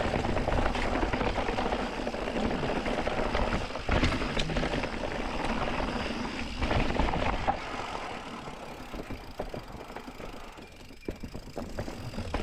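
Mountain bike riding on a dirt trail: wind rumbling on the microphone along with the noise and rattle of tyres and bike over the ground. It eases off about two thirds of the way through, with a few sharp clicks.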